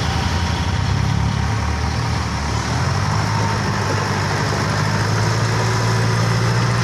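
Toyota Dyna dump truck's engine idling steadily.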